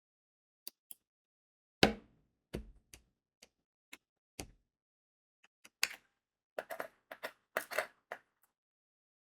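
Diamond painting work: scattered small clicks and taps of crystal drills and a drill pen on the canvas and tray, with a heavier knock about two seconds in and a quick run of clicks near the end.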